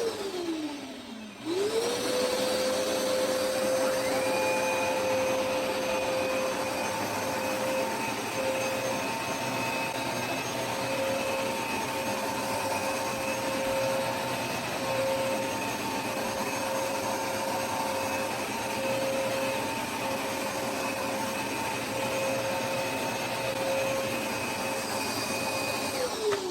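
Hoover SmartWash carpet cleaner (FH52000) running with its suction motor whining. It winds down at the start, starts up again about a second and a half in and rises to a steady pitch. A second, higher whine joins about four seconds in, both run steadily, and near the end the motor is switched off and winds down.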